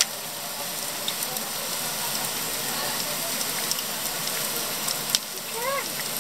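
Steady rushing of a waterfall. A few faint clicks and a brief high rising-and-falling call come near the end.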